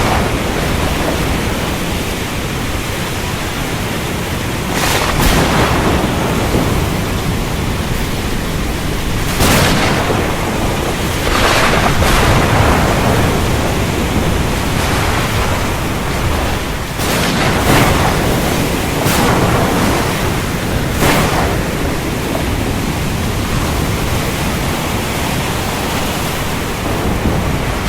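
Heavy rain falling steadily with a deep rumble of thunder underneath, and several brief louder surges.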